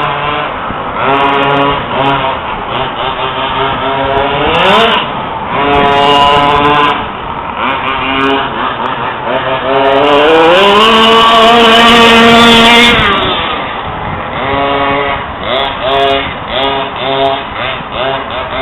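Small two-stroke petrol engine of an FG Monster Truck 4WD RC truck running with changing throttle. Its revs climb about four seconds in. About ten seconds in they rise again and are held high for a couple of seconds before dropping back. Near the end the throttle is blipped in short, choppy bursts.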